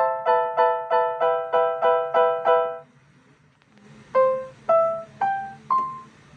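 BLW EK61-T electronic keyboard in a piano-like voice: a chord struck repeatedly, about three times a second, shifting in pitch a couple of times before stopping near the middle. After a short pause, four single notes are played one after another, each higher than the last.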